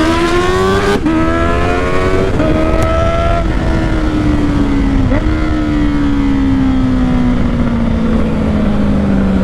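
Honda CBR650R inline-four through a Black Widow exhaust with its dB killer removed, pulling hard under acceleration. Its pitch climbs in three quick rising steps, each broken by a quick-shifter upshift in the first few seconds. After that the revs fall slowly as the throttle eases, with one more shift a little past the middle.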